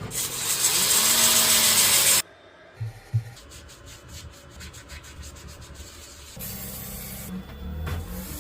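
Abrasive rubbing on wood, like sanding. It is loud for about the first two seconds and stops abruptly, then comes back quieter with a run of quick ticks, and picks up again near the end.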